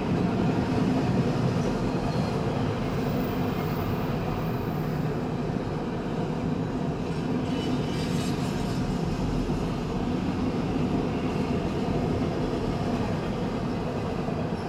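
Freight cars of a CSX train rolling over a concrete overpass: a steady rumble of wheels on rail with no break.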